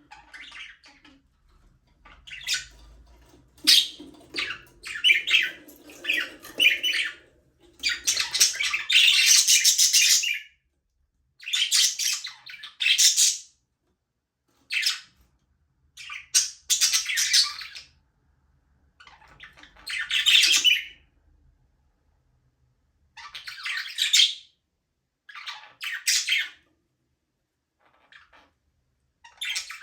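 Budgerigars chirping and chattering in bursts of one to two and a half seconds, with short pauses between; the longest run comes about eight seconds in.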